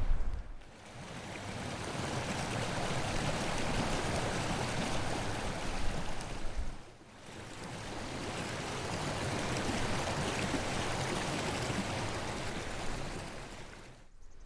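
A steady outdoor rushing noise in two long swells, each fading in and fading out, with a brief dip between them about seven seconds in.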